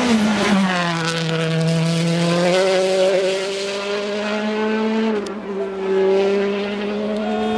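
A World Rally Car's 1.6-litre turbocharged four-cylinder engine running loud and hard. Its pitch drops just after the start, then holds fairly steady, with a small rise partway through and a brief dip about five seconds in.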